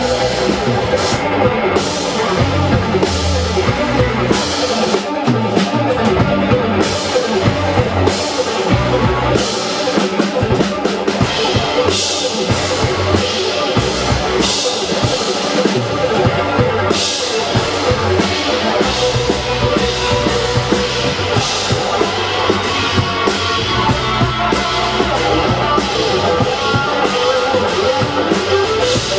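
Rock band playing live, loud and dense: a pounding drum kit under electric guitars.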